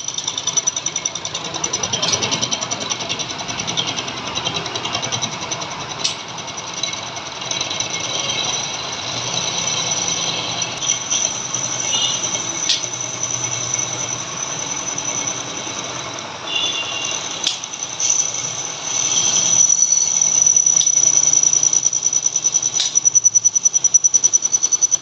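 Metal lathe running, a steady high whine over a fast, even rattle, with a few sharp clicks.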